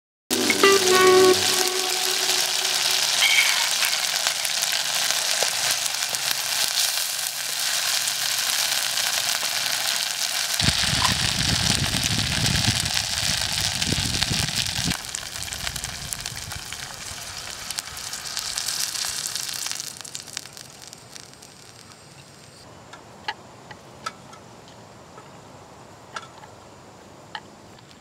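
Chili paste sizzling as it fries in hot oil in an aluminium pot on a portable gas stove. The sizzle drops off about twenty seconds in, leaving a quieter hiss with a few small clicks.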